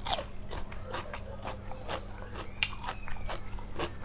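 A person chewing and biting a mouthful of lightly blanched shrimp salad close to the microphone: irregular wet clicks and smacks, several a second.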